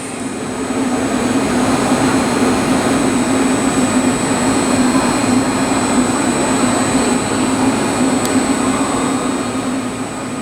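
Steady machinery hum with a whirring, blower-like noise and a constant low tone, unchanged throughout.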